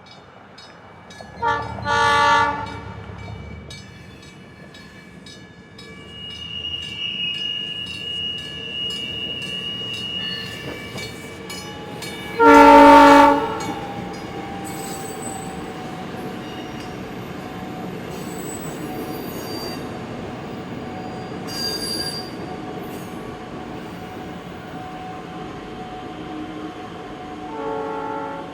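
NICTD South Shore Line electric commuter train running down the street. Its horn gives a short blast about two seconds in, a loud longer blast near the middle, and another near the end. Between the blasts the cars keep up a steady rumble, with a high, steady wheel squeal for a few seconds early on.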